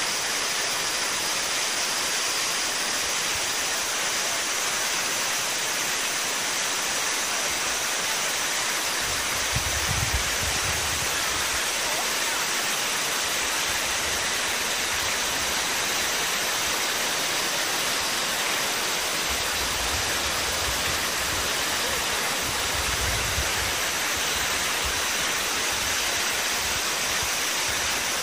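Sekinoo Falls waterfall: a steady, dense rush of falling water with no break, with a few deeper low rumbles about nine seconds in and again around twenty seconds.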